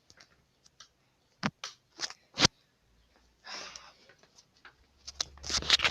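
A few sharp clicks and light knocks in a small room, with a brief breathy whisper about halfway through and more clicks near the end.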